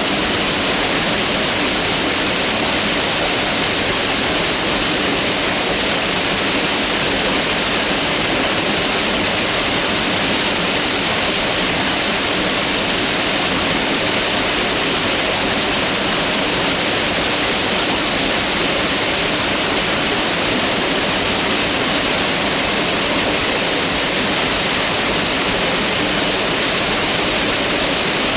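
Mountain river rushing steadily, a constant full roar of flowing water with no breaks.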